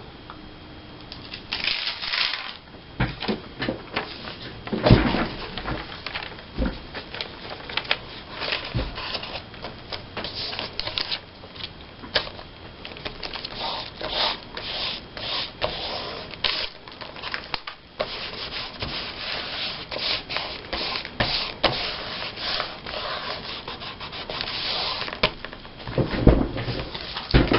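Paper being handled and rubbed in irregular short strokes, with scattered light taps and clicks: a glue stick rubbed across paper and cut-out pictures pressed down onto a glue-book page.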